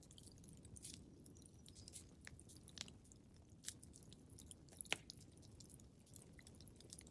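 Wood fire crackling quietly in a fireplace: irregular small snaps and pops over a low steady rumble, with one sharper pop about five seconds in.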